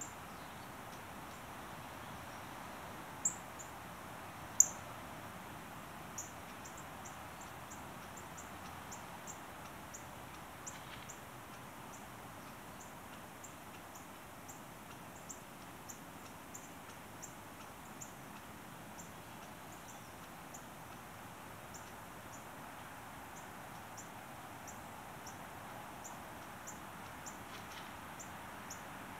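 A small bird giving short, very high-pitched call notes at irregular intervals, with two louder notes a few seconds in, over a steady faint background hum.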